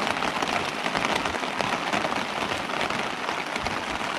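Heavy rain hammering down on a tent's fabric, heard from inside the tent as a steady dense patter.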